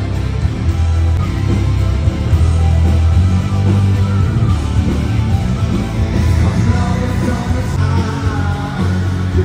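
Live rock band playing loud through a stadium PA during a sound check: electric guitar over a heavy bass line and drums.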